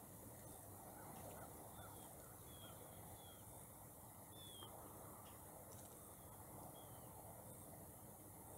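Near silence with faint outdoor hiss, broken by a few faint, short, high bird chirps that dip slightly in pitch, spaced irregularly.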